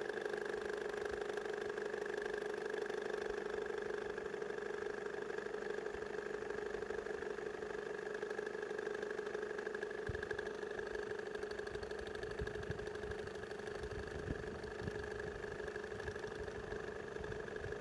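Jaguar X-Type 2.2 TDCi four-cylinder diesel idling with a metallic knock from the accessory drive belt side. New idler pulleys, tensioner and belt have not cured the knock, and the owner finds it is gone with the belt off. A low rumble joins about ten seconds in.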